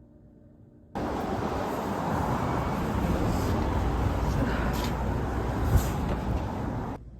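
Loud, steady rushing outdoor noise with a deep rumble, cutting in suddenly about a second in and stopping suddenly shortly before the end.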